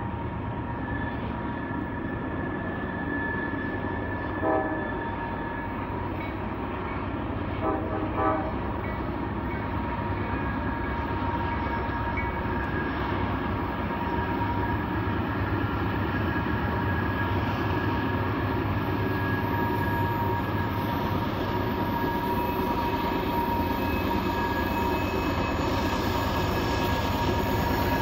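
Norfolk Southern diesel freight locomotives hauling a loaded coal train around a sharp curve, the engines rumbling steadily and growing louder as they approach. The horn sounds one short blast about four seconds in and two more short blasts around eight seconds, over a steady high squeal of wheel flanges on the curve.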